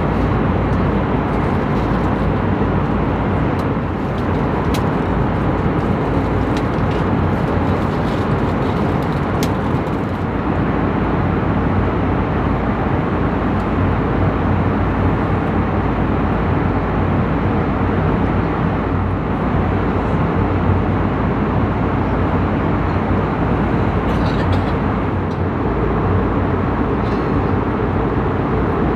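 Steady in-flight cabin noise of an Airbus A321neo: an even rush of engine and airflow with a faint low hum underneath. A few light clicks come in the first ten seconds.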